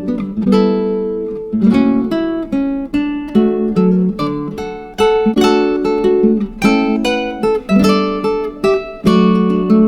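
Acoustic guitar music: plucked and strummed notes in a steady, unhurried rhythm.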